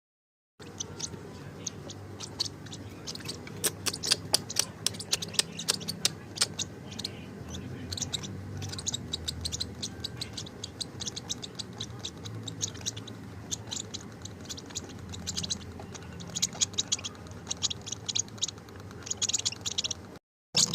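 Baby lovebird making rapid, very short high-pitched ticks and peeps in irregular flurries, over a low steady hum.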